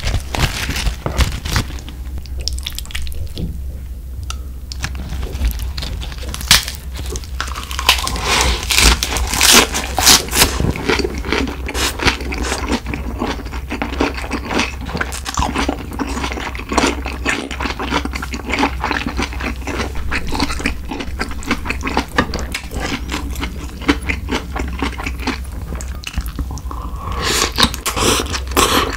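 Close-miked eating sounds: wet chewing and crunching of a lettuce-wrapped bite of spicy stir-fried pork, a rapid run of small crackles and clicks, over a steady low hum.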